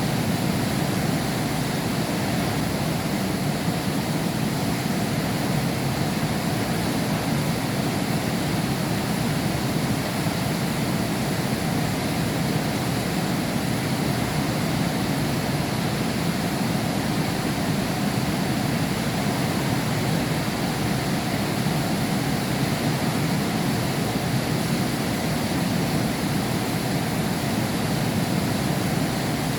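Heavy rain heard through a window pane, a steady, even rush with no thunder.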